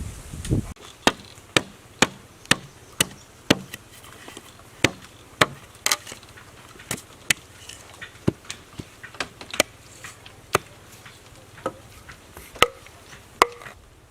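Wood being chopped with a blade tool: a run of sharp strikes about two a second, irregular in strength, the loudest two near the end.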